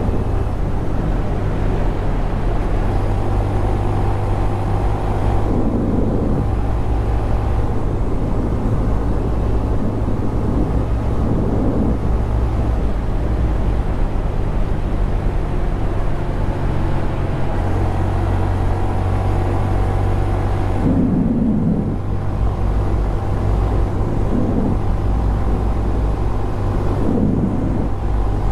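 Honda Grom 125's single-cylinder four-stroke engine running under way, its pitch rising and falling several times with throttle and gear changes.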